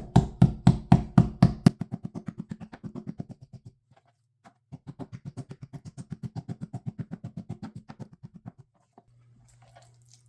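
Back of a knife rapidly beating butterflied chicken breast flat on a cutting board. It comes as two quick runs of knocks, about five to seven a second. The first run fades out after a few seconds, and the second starts a little before the middle.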